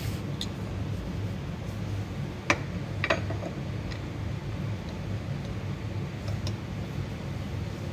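Steady low hum with a few light, sharp clicks and taps, the loudest about two and a half and three seconds in.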